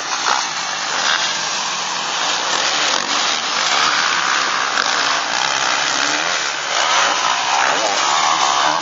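Motocross bikes' engines running hard at high revs, their pitch rising and falling as they accelerate and back off.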